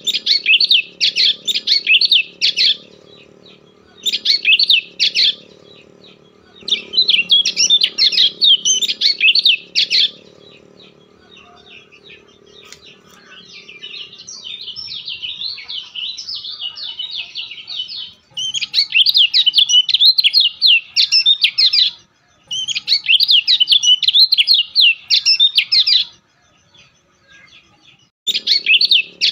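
A bird chirping in rapid, repeated phrases of a few seconds each, with short pauses between them. A faint low hum comes in with some of the phrases.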